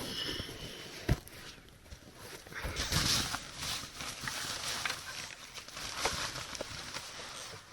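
Rustling and shuffling handling noises, loudest about three seconds in, with a few sharp clicks or knocks, one about a second in and another near six seconds.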